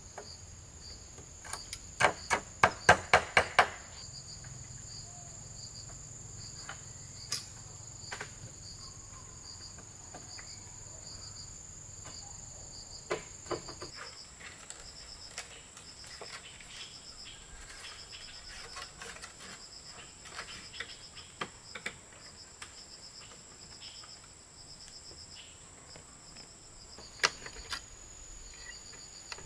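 Rainforest insects chirring throughout: a steady high-pitched drone over a fast pulsing trill. About two seconds in comes a quick run of about eight sharp knocks, the loudest sound here, followed later by scattered lighter knocks and clicks.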